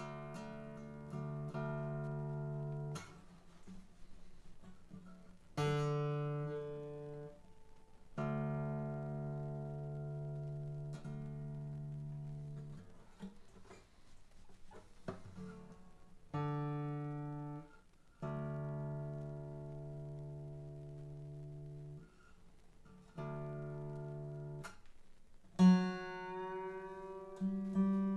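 Strings of a Seagull S12 Coastline 12-string acoustic guitar plucked one at a time and left to ring while being tuned, a new note about every two to three seconds. They are freshly fitted strings that are still stretching and slow to hold their tune. Near the end comes one louder pluck.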